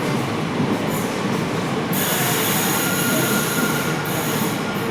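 Train running on the rails with a steady rumble. About two seconds in, a high-pitched hiss with a faint thin tone joins and lasts about two seconds.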